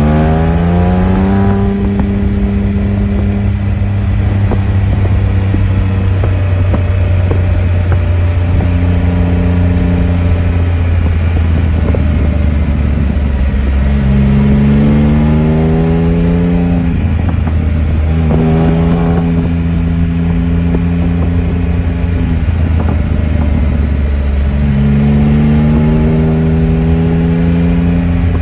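Can-Am Spyder F3's Rotax 1330 inline three-cylinder engine under way, its pitch climbing several times as it accelerates out of curves and holding steady between. Wind rushes over the microphone throughout.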